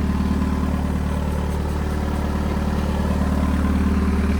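Volkswagen 1.9 TDI (ALH) four-cylinder turbo-diesel idling steadily about a minute after a cold start.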